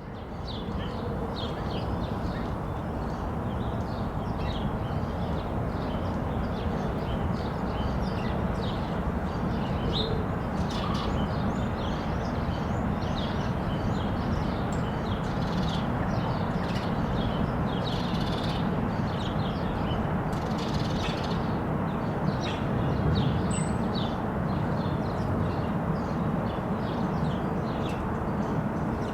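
Many small birds chirping in quick, overlapping calls, over a steady low background rumble.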